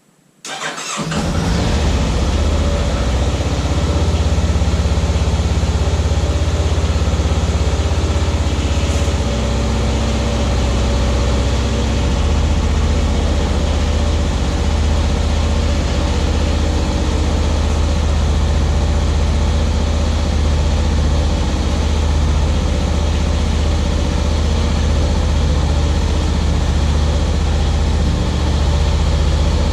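2023 Honda Rubicon 520 ATV's single-cylinder engine catching on a cold start about half a second in, then idling steadily.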